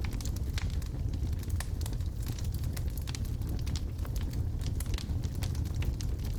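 Wood logs burning in a fireplace: a steady low rumble of the fire with frequent sharp, irregular crackles and pops.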